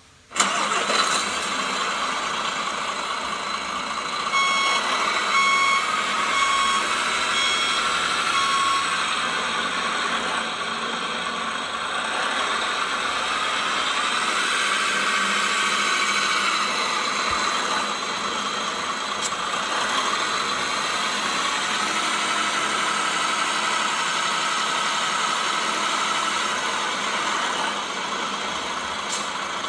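Beier electronic sound module in an RC Mercedes Arocs 6x6 model truck playing a simulated truck diesel engine through its loudspeaker: the engine sound starts suddenly and runs steadily. A series of reversing beeps repeats from about four to nine seconds in, and the engine note rises and falls briefly around the middle.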